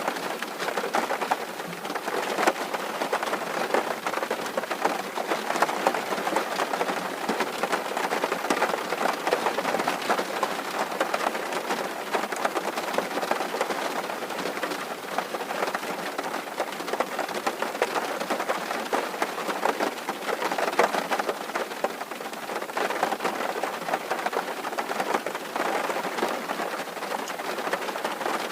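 Rain drumming steadily on a tin roof: a dense patter of countless drops hitting metal sheeting.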